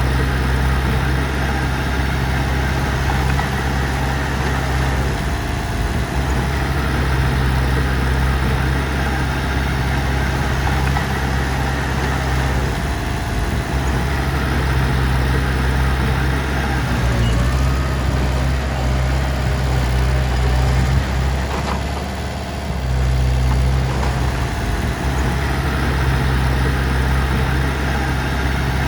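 Heavy diesel machinery engine running steadily at a low, even rumble, dropping briefly in level about 22 seconds in.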